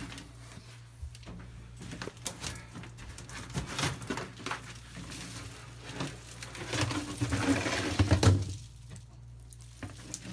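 Scattered knocks, clicks and rustling from handling a dryer vent duct as it is worked loose, with a louder stretch of scraping and rattling about seven to eight seconds in, over a faint steady low hum.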